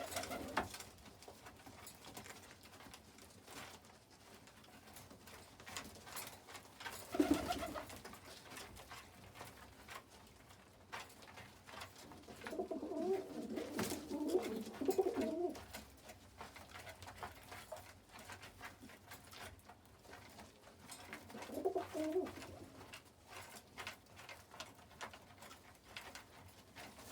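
Domestic pigeons cooing in a few separate low bouts, the longest lasting about three seconds near the middle, over faint scattered ticks.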